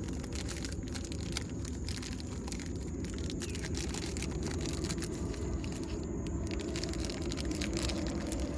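Small bolts and battery-terminal hardware being handled: light clicks and rattles over a steady low background rumble.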